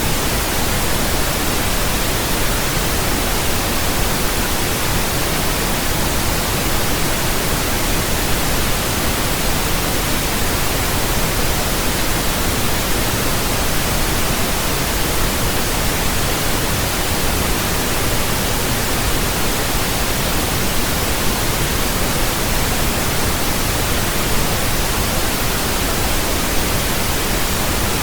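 Steady synthetic pink noise: an even, unchanging hiss across all pitches, with more weight in the bass than white noise.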